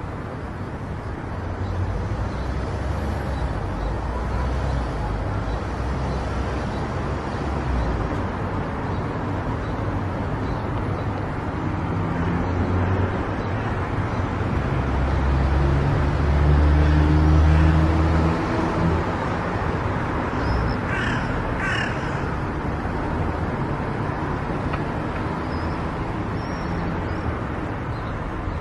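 A car driving on a road: steady tyre and engine noise, swelling to its loudest a little past halfway. About two-thirds of the way through, a crow caws three times.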